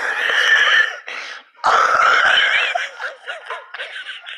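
Two loud bursts of non-speech vocal noise, each about a second long, followed by softer vocal sounds.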